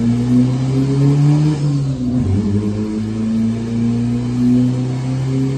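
Honda D-series engine in a Civic drag car running hard under load on a dynamometer. Its pitch dips briefly about two seconds in, then holds and slowly climbs.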